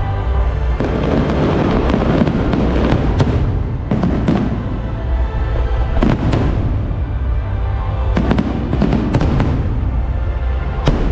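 Aerial fireworks going off: a series of sharp bangs, several close together around two-thirds of the way in, each followed by crackling. Music plays underneath.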